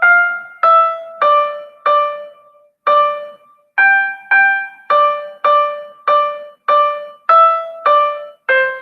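A simple melody of single piano-like keyboard notes from a student's Soundtrap composition, one note at a time about every half second, each struck and fading. There is a pause of about a second near the start.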